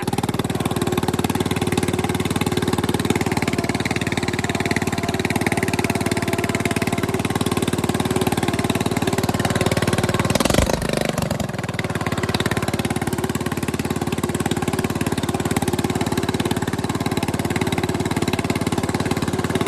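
Bolens mower engine running steadily and loudly through a homemade welded exhaust whose small muffler does little to quiet it. About halfway through there is a brief noisy burst, and the engine runs a little quieter for a moment after it.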